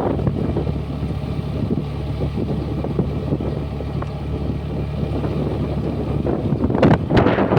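Honda Dio 125 scooter engine running steadily while riding, with wind rushing over the microphone. Near the end the rushing noise grows louder.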